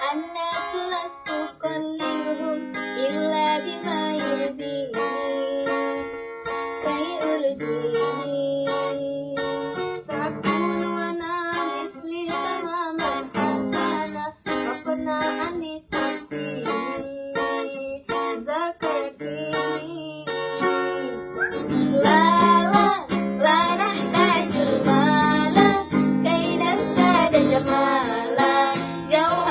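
Music: an acoustic guitar strummed in a steady rhythm under a melody line, growing louder about 22 seconds in.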